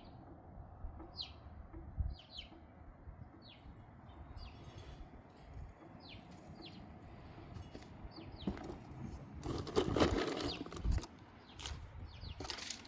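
Small birds calling with short, sharp chip notes, one every second or so, over a steady outdoor hiss. A louder rustling burst comes about ten seconds in.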